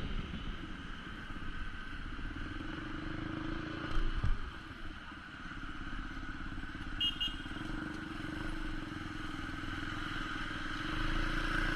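Motorcycle engine running steadily while riding, with road and wind noise, and a thump about four seconds in.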